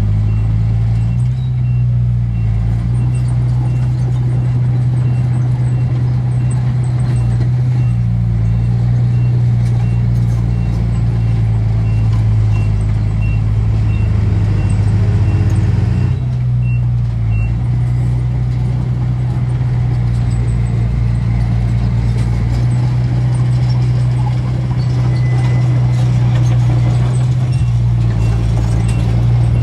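Heavy diesel engine of earthmoving machinery running steadily with a deep drone. A reversing alarm beeps at an even pace until a little past halfway, then stops.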